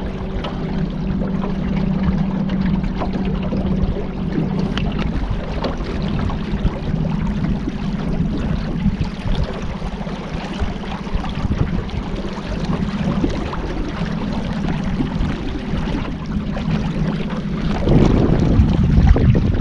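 Boat engine running steadily with a low hum, over the rush of water and wind. Near the end it grows louder and rougher.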